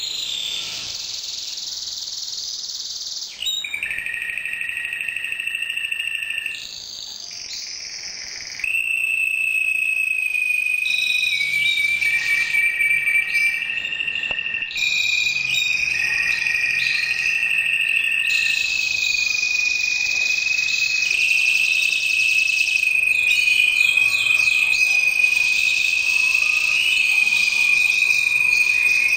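Red mosaic canary singing a long, continuous song of fast trills and held rolling tones, switching to a new phrase every few seconds.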